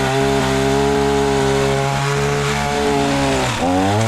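Pole saw (a chainsaw on a long pole) revved up and held at high speed. It drops briefly about three and a half seconds in, revs again, then falls back near the end.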